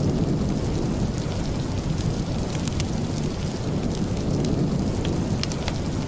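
Steady rain with a deep, rumbling hiss, and scattered sharp crackles over it.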